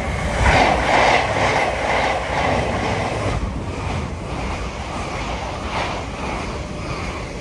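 LNER Azuma Class 801 electric multiple unit passing through at speed: a rush of rail and air noise with a repeated clatter of wheels, loudest in the first two seconds, then easing off as it draws away.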